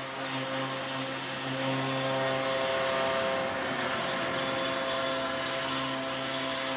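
CNC stone router running steadily while machining marble: a constant motor and spindle hum with a hiss of cutting that swells about three seconds in.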